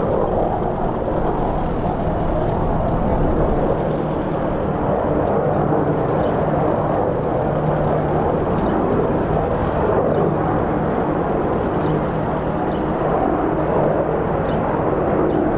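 Military helicopters running: a steady, loud rotor and turbine noise with a fast low beat from the blades.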